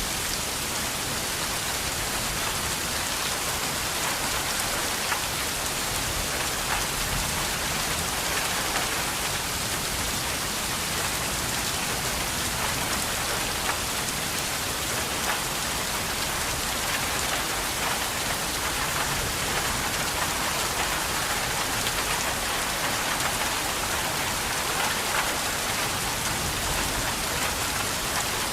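Steady rain falling and pattering on a surface, an even hiss dotted with small drop ticks.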